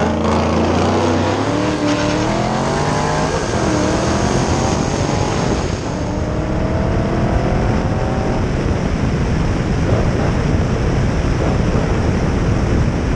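A V8 muscle car launching hard from a standing start and accelerating through the gears. The engine climbs in pitch and drops back at upshifts about three and six seconds in. Loud wind rush over the car-mounted microphone takes over in the last few seconds.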